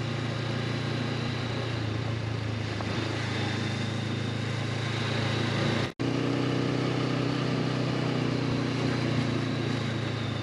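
Honda CB500X parallel-twin engine running steadily under way, with wind and road noise. The sound drops out for an instant about six seconds in and comes back with a slightly different engine note.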